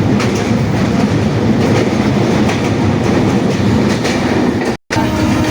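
Loud, steady rumbling of a moving vehicle with faint repeated clatter. The sound cuts out for a split second near the end.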